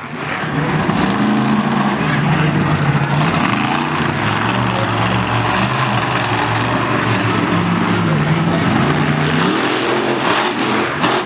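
A loud vehicle engine revving, its pitch rising and falling several times.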